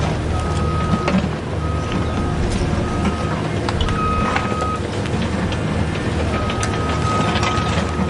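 Remote-control toy construction vehicle running, its electronic beeper sounding on and off in beeps of uneven length over a steady low hum, with scattered clicks.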